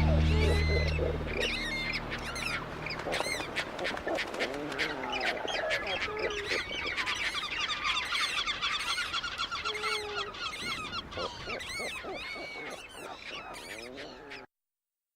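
A flock of birds calling over one another, many short chirps and calls overlapping, which stops abruptly near the end. Closing music fades out under the calls in the first second or two.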